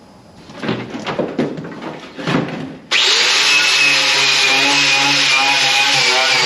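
Irregular scraping and knocking for a couple of seconds, then about three seconds in a handheld power tool starts abruptly and runs steadily at full speed, with a slightly wavering hum.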